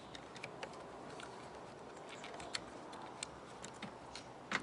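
Scattered small clicks and ticks of plastic and wire being handled as wires are worked out of a fuel pump wiring connector, with a sharper click near the end.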